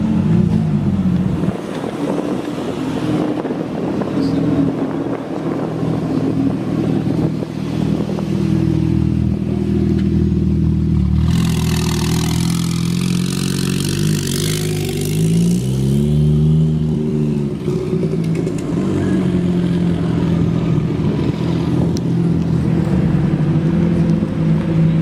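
Supercar engine and exhaust running with a deep, steady note, its pitch falling near the start and rising and falling again as it revs about two-thirds of the way through. A loud rushing hiss covers the upper range for about five seconds in the middle.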